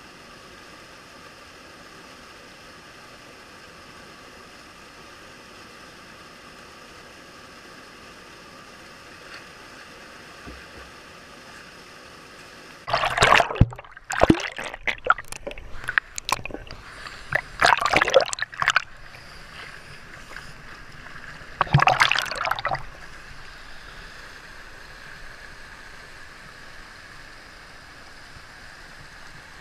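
Running water from a mountain stream or waterfall, a steady rushing. A few loud, short bursts of noise break in about halfway through, and once more a few seconds later.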